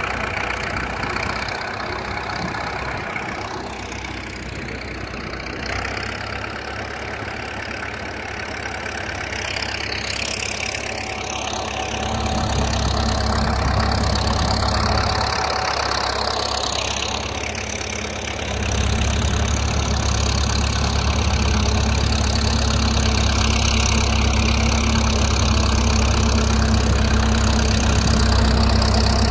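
Tractor engine running while working its loader, growing louder about twelve seconds in, easing briefly, then pulling harder again and holding steady.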